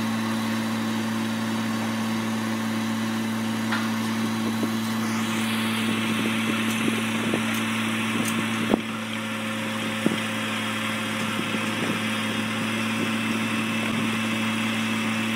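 Heavy equipment diesel engine running steadily with an even, low hum, broken by two short sharp knocks about nine and ten seconds in.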